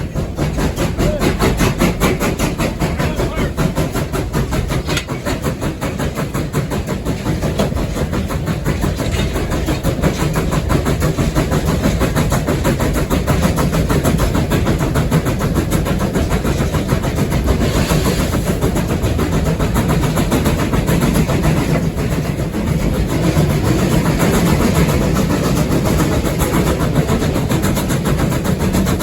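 Steam locomotive running, heard from inside its cab: a steady, rapid rhythmic beat of exhaust and running gear over the rails. A brief burst of hiss comes about eighteen seconds in.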